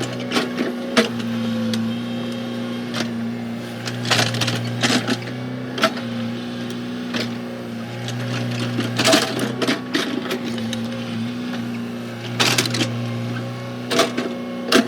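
Komatsu excavator's diesel engine running steadily, with irregular sharp clanks and knocks of metal and rock from the machine at work.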